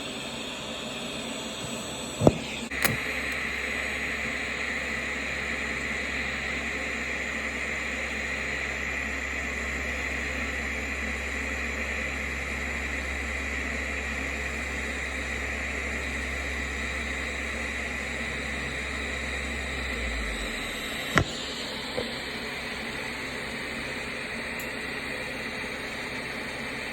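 A shop tool starts with a click about two seconds in and runs steadily, a hiss over a low hum, for about eighteen seconds. It stops about twenty seconds in, followed by a couple of clicks.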